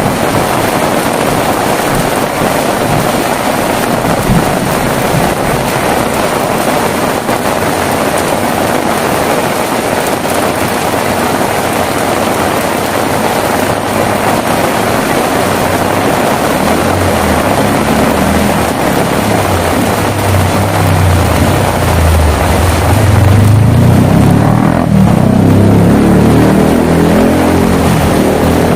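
Heavy rain falling steadily. A low rumble builds in about halfway through and grows louder and slightly higher toward the end.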